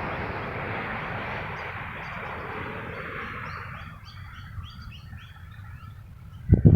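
Dust storm wind rushing, easing off about halfway through, after which small birds chirp rapidly in many short notes. A gust buffets the microphone near the end.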